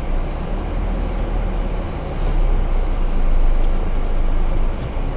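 Heavy truck's diesel engine running under load, heard as a steady low rumble inside the cab, growing louder from about two seconds in as the truck reverses uphill.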